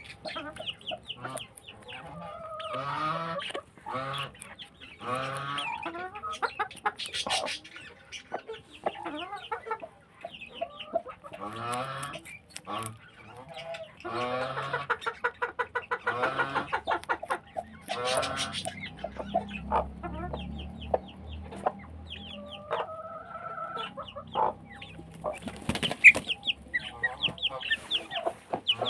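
A flock of chickens clucking and calling, with many short repeated calls overlapping and some longer drawn-out calls. A low rumble comes in about two-thirds of the way through, and there is a sharp click near the end.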